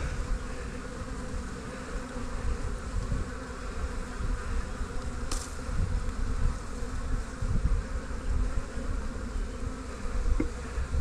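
Honeybees buzzing steadily in numbers around an opened hive, with uneven low rumbling underneath and one brief click about five seconds in.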